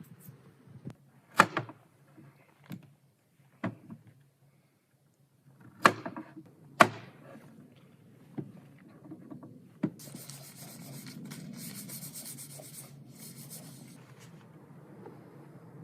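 Wood being worked by hand: a series of sharp knocks on wood, the loudest three in the first seven seconds, then from about ten seconds in a few seconds of rasping, scraping on wood.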